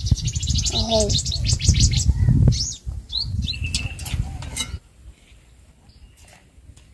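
Small birds chirping over and over in quick short calls, with a loud low rumble underneath; both drop away about five seconds in, leaving quieter outdoor background.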